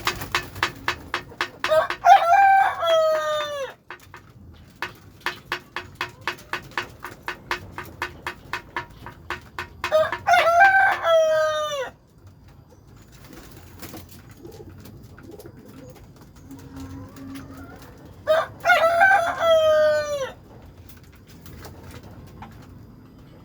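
Rooster crowing three times, each crow about two seconds long and trailing down in pitch at the end, roughly eight seconds apart. Runs of short sharp sounds, about three or four a second, come between the first crows.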